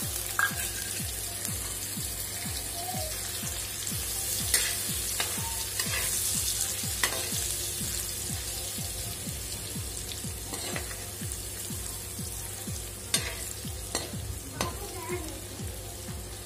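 Ginger-garlic paste sizzling in hot oil in a metal kadhai as a spatula stirs it, with a steady hiss. The spatula scrapes and knocks against the pan several times.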